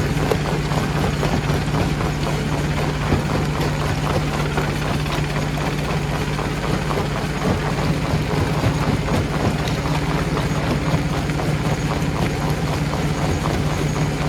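Stone crusher running, with a steady low hum and a dense, irregular clatter of rock being broken.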